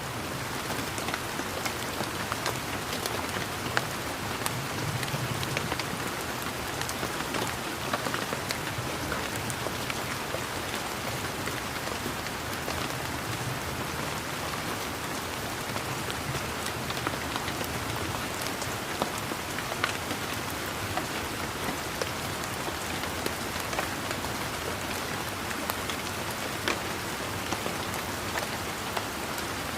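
Steady rain falling, with a constant hiss and many separate drops ticking sharply throughout.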